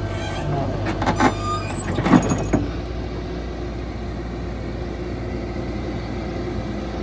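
Diesel engine of heavy earthmoving machinery running steadily, with a few sharp metallic clanks in the first two and a half seconds.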